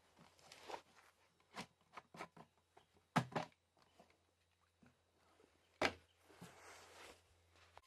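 A few separate knocks and clunks from objects being handled, with the two loudest about three seconds in and just before six seconds, followed by a brief faint rustle.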